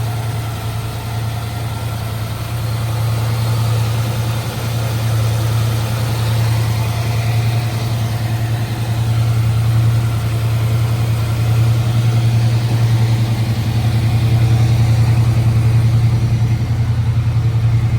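1967 Chevrolet Camaro engine idling steadily through its dual exhaust, running smoothly with no knock. It grows a little louder over the second half.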